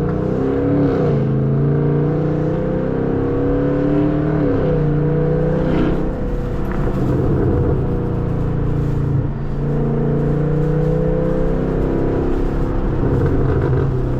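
Chevrolet Camaro SS's 6.2-litre LT1 V8 running cold through an exhaust with the muffler and secondary catalytic converters deleted, its pitch rising and falling a little several times.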